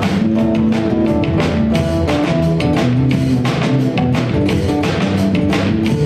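Live band playing an instrumental passage of a hip hop song: drum kit keeping a steady beat under sustained guitar and bass notes.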